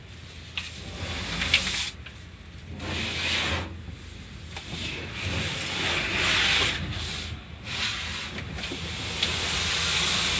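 Car wash water jets and brushes working on a car: a rushing spray noise that swells and fades in surges, with a few short knocks.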